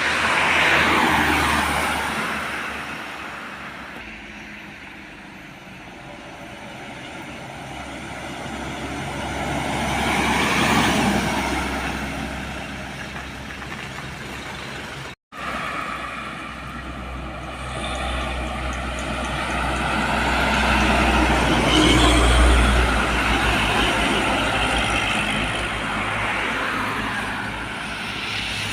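Heavy diesel trucks driving past on a road one after another, each swelling and falling away as it goes by, about three pass-bys in all. The last is a deep engine rumble, loudest about two-thirds of the way through. The sound cuts out for an instant near the middle.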